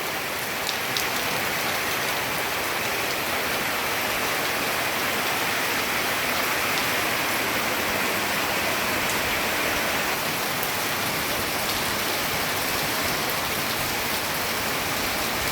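Heavy tropical rain shower pouring steadily, a dense even hiss of rain on hard surfaces with faint individual drop ticks.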